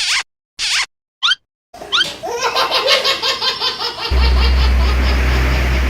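Three quick falling sweeps, then a burst of laughter. About four seconds in, a loud steady low hum starts under the laughter.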